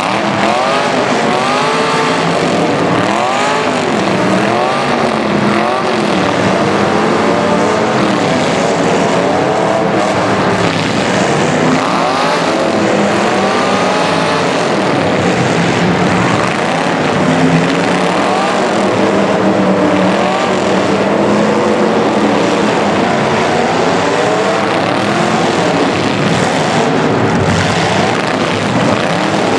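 Several racing engines running together, each revving up and down in overlapping rising and falling whines as the vehicles race around the track.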